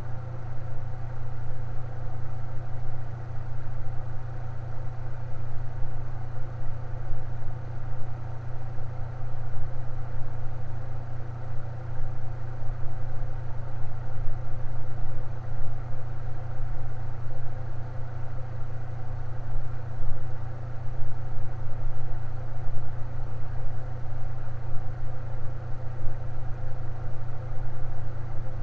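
Electric fan running steadily with a low, even hum and a faint whir above it, unchanging throughout.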